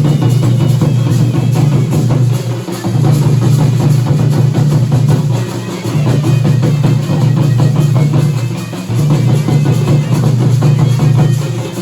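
Indian dhol drums played fast and dense, with a heavy steady low boom under rapid strokes. The playing goes in phrases that dip briefly about every three seconds.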